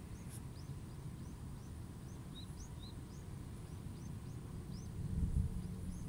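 Small birds chirping in short rising chirps, about three a second, over a steady low outdoor rumble that swells about five seconds in.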